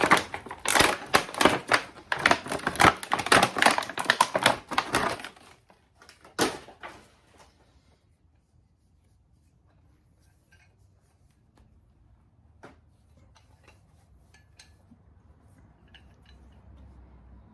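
Metal tool parts rattling and clinking rapidly for about five seconds, then a single clank about six seconds in, followed by only faint occasional ticks.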